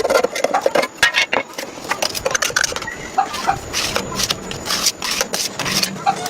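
Irregular scraping and rubbing with many sharp clicks and knocks, with a few brief bits of voice mixed in.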